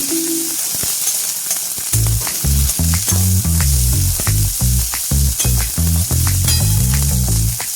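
Food frying in hot oil in a pan, a steady sizzle, with the clicks and scrapes of a spatula stirring it.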